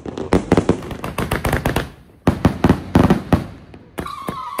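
Consumer fireworks going off in two rapid volleys of sharp crackling reports, with a short pause between them about two seconds in. Near the end a warbling whistle-like tone starts.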